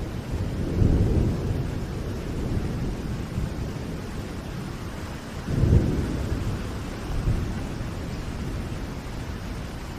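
Steady rain with low rolling thunder, a deep rumble swelling about a second in and a louder one just before the middle, easing off toward the end.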